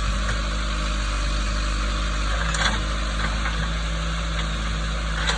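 Diesel engine of heavy land-clearing equipment running steadily, with one faint short snap about two and a half seconds in.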